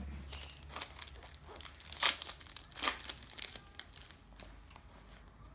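Plastic wrapper of a trading-card packet being torn open and crinkled by hand, a run of irregular crackles, the two loudest about two and three seconds in.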